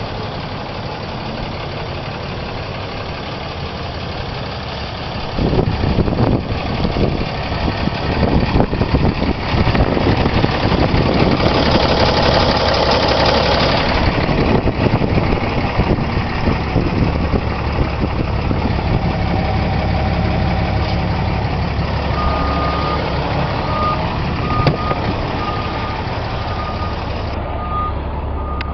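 2010 Ram 2500's 6.7-litre Cummins turbo-diesel inline-six idling, then getting louder and busier about five seconds in and easing back down after the middle. Late in the stretch a short electronic beep repeats about once a second over the engine.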